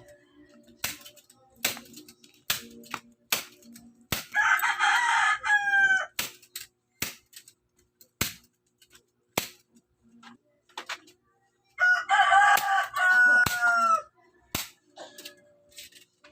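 A rooster crowing twice, each crow about two seconds long and dropping in pitch at the end, with sharp knocks at irregular intervals around them.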